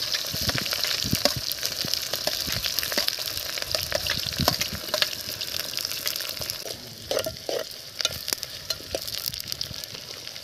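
Chopped onions sizzling in hot oil in a steel pot over a wood fire, with a metal spoon clicking and scraping against the pot as they are stirred. The sizzle slowly fades.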